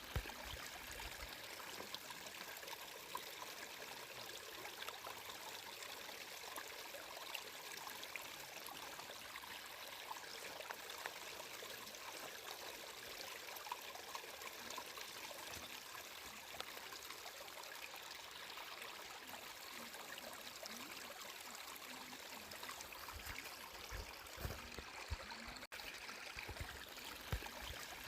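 Water flowing steadily in a small stream, a continuous trickling and splashing with many tiny droplet clicks. There is a split-second dropout about three-quarters of the way through.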